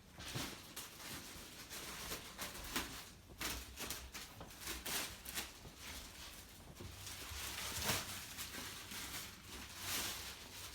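Irregular rustling and soft knocks of something being handled.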